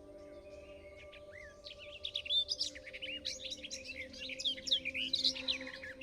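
A songbird singing a fast, jumbled run of high chirps and warbles starting about a second and a half in, over a soft steady drone of held low tones.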